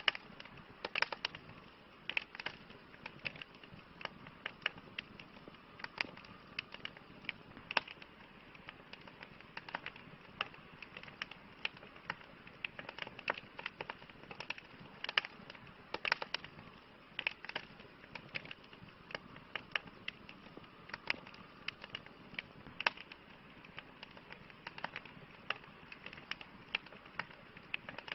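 Campfire crackling: irregular sharp pops and snaps, sometimes several in quick succession, over a soft steady hiss.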